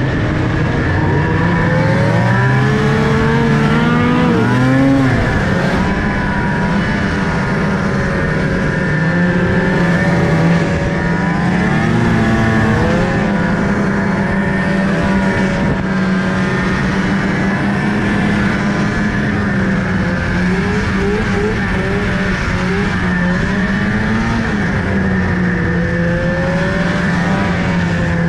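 A car engine running under load, its pitch rising and falling repeatedly as the revs change.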